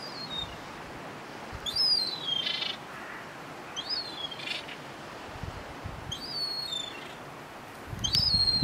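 A bird repeating a short, thin, high-pitched call that slides downward, about once every two seconds.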